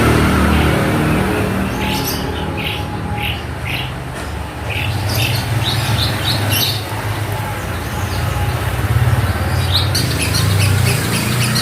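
Long-tailed shrike singing runs of short, sharp chirping notes, first about two seconds in and again near the end, over a steady low rumble.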